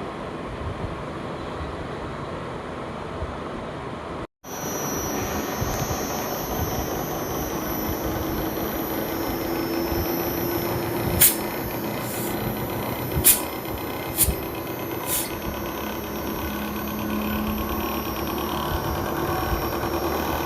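Voltas inverter air conditioner running under test with a steady mechanical hum. The sound drops out for an instant about four seconds in and comes back louder with a steady tone. A few sharp clicks come around the middle.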